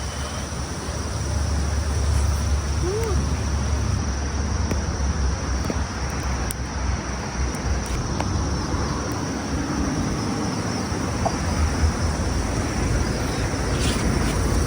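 Crickets chirping steadily outdoors over a continuous low rumble.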